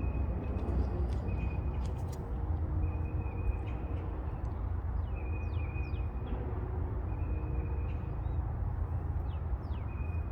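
Outdoor pond-side ambience: birds calling, with a few quick downward-sliding chirps about halfway through and near the end, and a high, steady trill that repeats in stretches of about a second. All of this sits over a constant low rumble.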